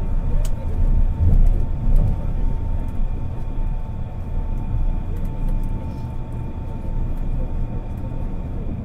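Running sound heard from inside a Kobe New Transit 2020-series Port Liner, a rubber-tyred automated guideway train, at speed. Its tyres rumble steadily on the guideway under a constant whine, a little louder about one to two seconds in.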